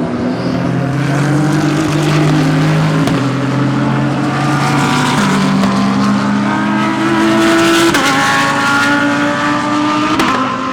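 GT3 race cars accelerating past, their engines climbing in pitch and dropping with each upshift, several cars overlapping. The upshifts come about every two to three seconds.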